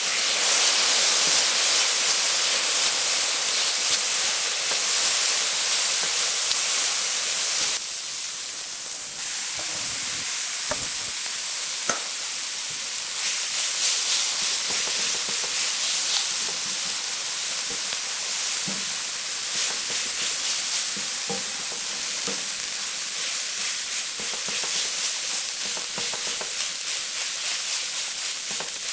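Diced vegetables sizzling in oil and soy sauce in a frying pan while a silicone spatula stirs them. About eight seconds in the sizzle drops quieter and the stirring goes on through cooked rice, with a few soft knocks.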